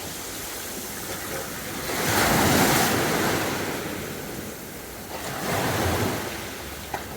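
Sea waves breaking and washing up a beach, a surge peaking about two seconds in and a smaller one around six seconds.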